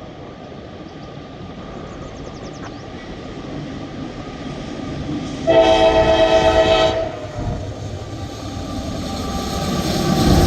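Locomotive air horn sounding one blast of about a second and a half, midway through, over the low rumble of a train that grows louder toward the end.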